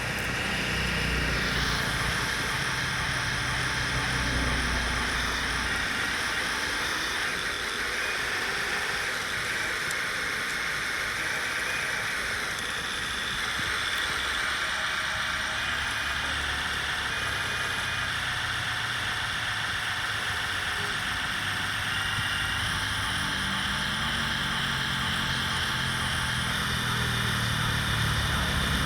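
Remote-control metal construction models working, their electric motors and gearboxes whirring steadily with small shifts in pitch and strength.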